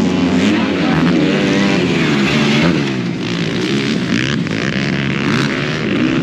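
Several dirt bike engines running and revving at once, their pitch wavering up and down.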